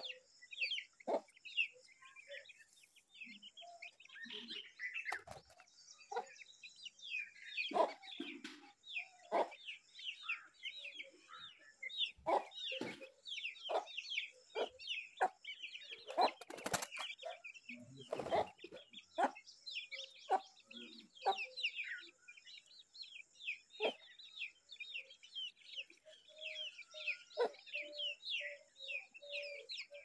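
Small birds chirping continuously in rapid short high notes, several a second, broken by occasional sharp knocks and rustles, over a faint steady high hiss.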